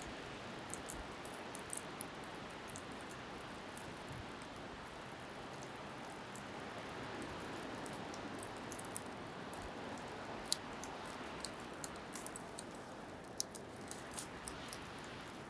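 Bonfire crackling with many short sharp pops, more frequent in the second half, over a steady hiss of waves and wind.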